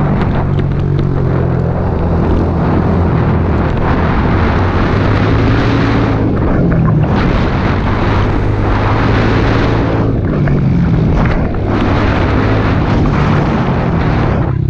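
Pit bike's small four-stroke single-cylinder engine being ridden, its revs rising and falling repeatedly as the throttle is opened and eased off, with wind noise on the microphone.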